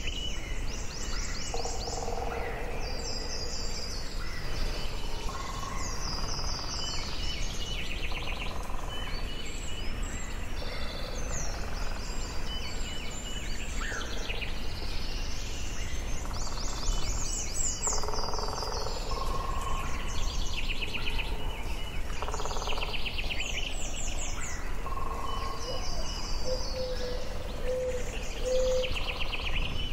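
Forest ambience: several birds singing and calling in short repeated phrases, some high and some lower whistled notes, over a steady low background rumble.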